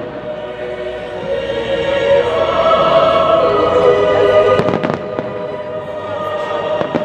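Fireworks shells bursting with sharp bangs and pops, a heavy cluster of them just before the five-second mark, over sustained music that swells in the middle.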